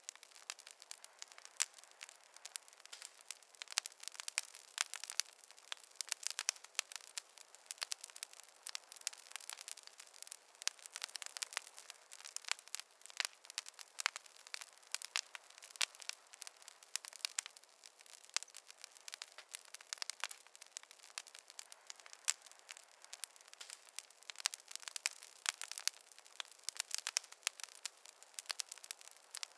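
Wood fire crackling in a fireplace: a dense, irregular run of small sharp pops and snaps from the burning logs.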